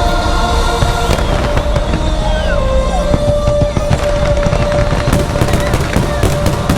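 Fireworks bursting over the show's music, building to a rapid run of bangs in the last two seconds.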